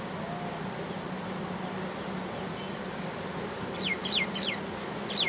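A bird gives three quick, short calls that slide sharply downward, near the end, over a steady rushing background noise.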